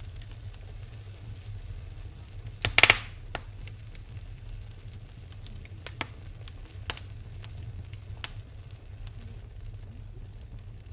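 Wood fire burning in a fireplace, crackling with scattered sharp pops over a steady low rumble; a loud cluster of pops comes about three seconds in.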